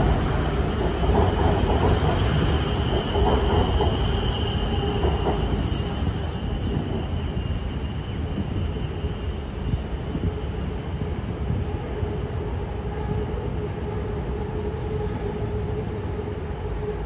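BTS Skytrain electric train running past close by on the elevated track, a steady rumble with a high whine. About six seconds in the sound changes to a quieter, more distant train running along the curved viaduct.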